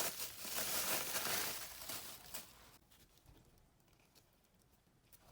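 Crinkling, rustling noise for nearly three seconds, then it stops and only a few faint clicks follow.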